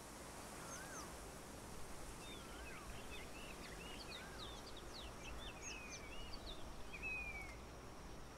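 Faint birdsong: several birds chirping and whistling over a steady outdoor hiss, with a rising-then-falling whistled note repeating about every second and a half.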